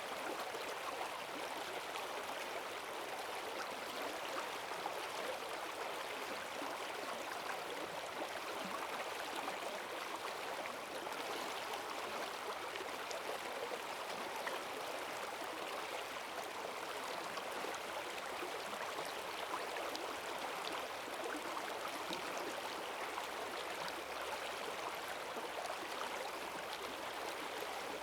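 Rain-swollen forest stream rushing steadily over its bed, a constant wash of running water with small splashes and gurgles in it.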